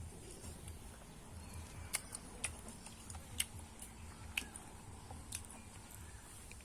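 Irregular sharp clicks, about one a second, starting about two seconds in, over a low rumble.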